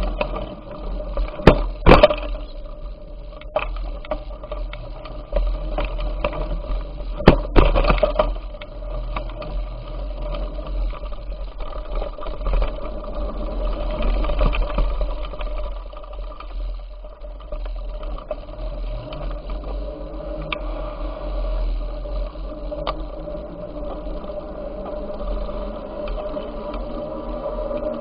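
Bicycle on the move: steady rolling noise with a low hum underneath, broken by sharp rattles and knocks from bumps, the loudest about two seconds in and again around seven to eight seconds in.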